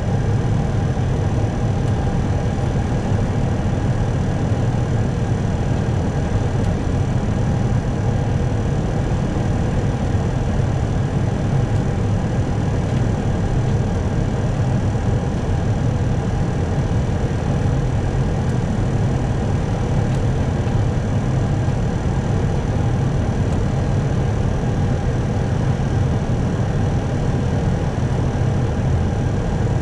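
Steady flight-deck noise inside an Airbus A321 on final approach: an even rumble of airflow and engines with faint steady tones, unchanging throughout.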